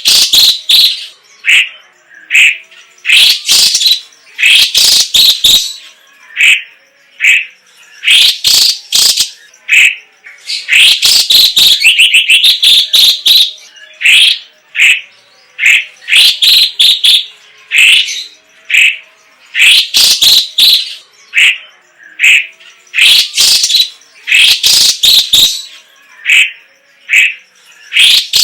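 Leafbird (cucak ijo cina) singing continuously: loud, fast phrases of short whistled and chipping notes repeated several times a second, with a rapid rattling trill near the middle.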